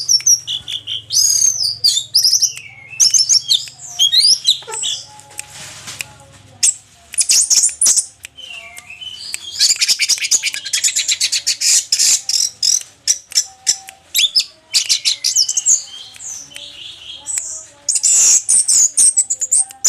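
Orange-headed thrush singing a long, varied song of quick whistled phrases and rapid trills, in bursts with short pauses.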